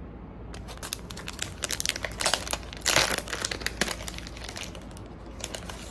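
Packaging being handled and crinkled, a dense run of crackling rustles with the loudest burst about three seconds in.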